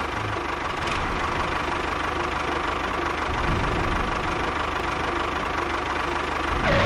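A small motor running steadily, with a fast even pulsing and a faint steady whine over it.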